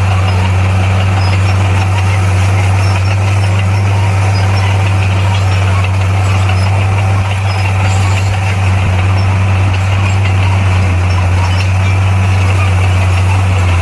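Heavy earthmoving machine's diesel engine running steadily, a constant low drone that does not change speed.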